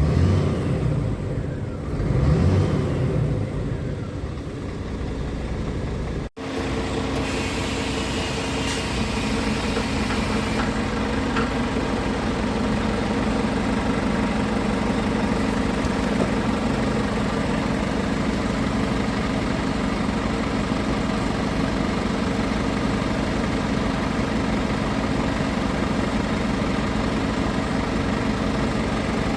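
Scania R450 truck's 13-litre six-cylinder diesel engine revved twice in short blips, then, after a brief break, running steadily at idle.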